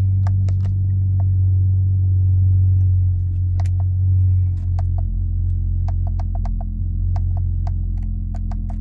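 Chrysler 300's engine idling steadily, a low hum heard from inside the cabin. Over it come many light, irregular clicks of the steering-wheel buttons being pressed to scroll through the instrument-cluster menus, quickening in the second half.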